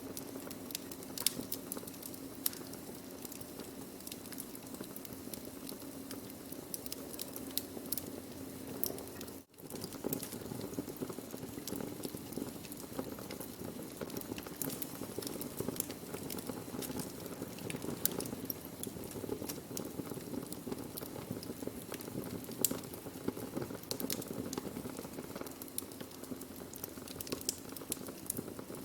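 Wood fire burning, with a steady low rushing hiss and frequent sharp pops and crackles. The sound cuts out for a split second just before ten seconds in.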